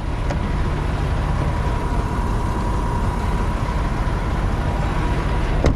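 Semi truck's diesel engine idling with a steady low rumble and a faint steady whine above it, then a sharp click near the end.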